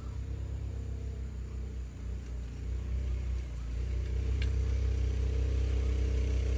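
A motor vehicle's engine running with a low, steady hum that grows louder from about halfway through.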